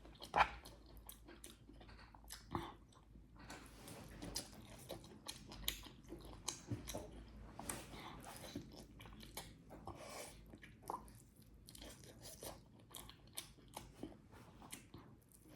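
Close-miked chewing and biting of rice and chicken curry, a run of irregular short mouth clicks and crunches, with one sharper click about half a second in.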